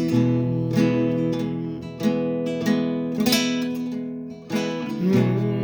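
Strummed acoustic guitar playing the chords of a slow country ballad, with no singing. The chord changes about two seconds in and again near the end.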